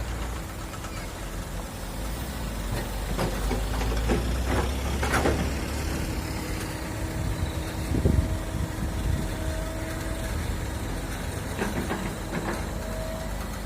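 Hydraulic excavator's diesel engine running steadily under work, with several knocks and clatters between about three and five seconds in and a louder one about eight seconds in. A faint steady whine comes in mid-way and again near the end.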